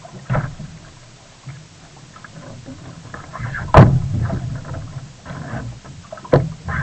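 Sea kayak paddling: irregular splashes of the paddle blades in the water, with a sharp knock about four seconds in, the loudest sound, and a smaller one near the end.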